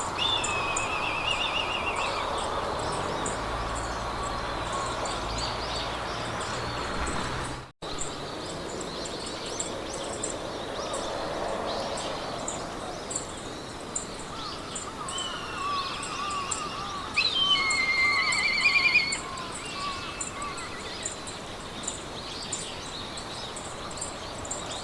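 Meadow ambience: birds singing short trilled phrases, loudest about 17 to 19 seconds in, over a steady rustling haze of wind in grass. A high, regular ticking runs about three times a second, and the sound cuts out briefly about eight seconds in.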